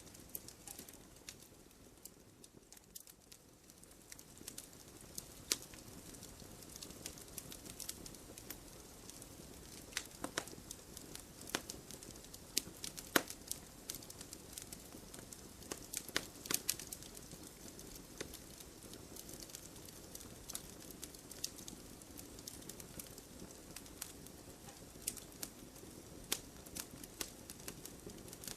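Wood fire burning in a fireplace: irregular sharp crackles and pops from the logs over a soft, steady low rustle of the flames.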